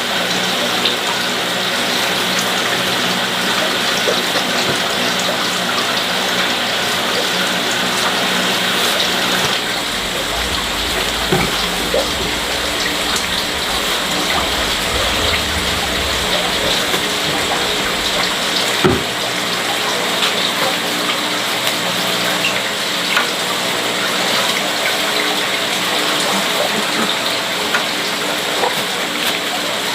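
Steady rushing water, with a few light clicks and a single low thump a little past the middle.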